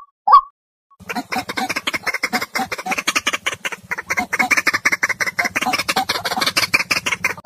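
White-breasted waterhen (ruak-ruak) call used as a trapping lure: after about a second of quiet, a rapid, dense run of harsh croaking notes that goes on to the end.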